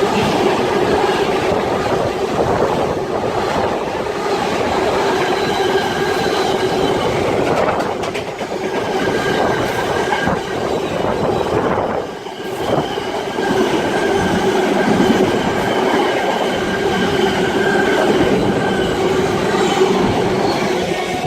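A Class 66-hauled container freight train passing through the station, its wagons rumbling along the rails with a steady tone over the noise. The sound dies away right at the end as the tail of the train passes.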